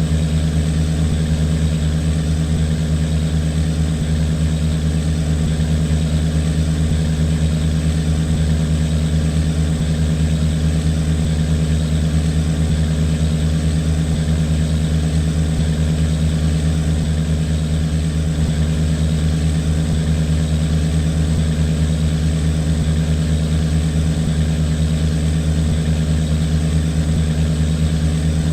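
Boat engine running steadily at a constant speed, a loud low hum that does not change.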